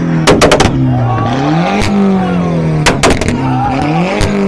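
A car engine revved hard in repeated blips, its pitch climbing and then falling back each time. As the revs drop, the exhaust gives off loud, sharp pops and bangs in quick clusters, the crackle of unburnt fuel igniting on deceleration.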